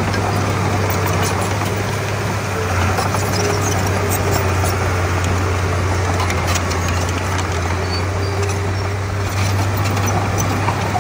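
Diesel engine of a Komatsu D31P crawler bulldozer running steadily with a low drone, with scattered light metallic clinks.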